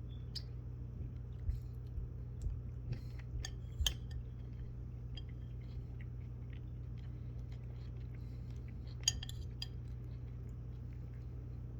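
Scattered sharp clicks and crunches of a pet parrot biting into and chewing cucumber, bunched a few seconds in and with one sharper click late on, over a steady low hum.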